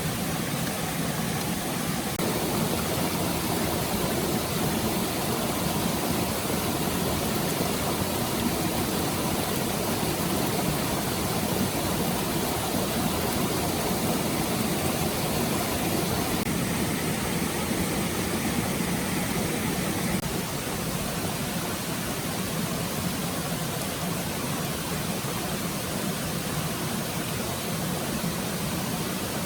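Stream water flowing steadily, a continuous rushing hiss that gets a little quieter about twenty seconds in.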